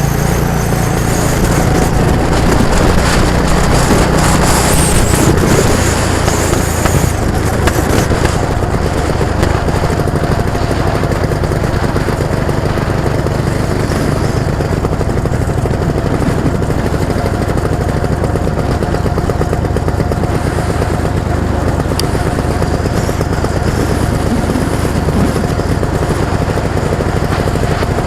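A vehicle engine running steadily, with a rapid, even firing beat.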